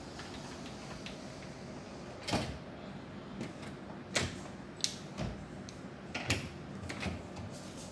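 A few scattered knocks and clicks, about six in all, the loudest about two and four seconds in, over a steady low background.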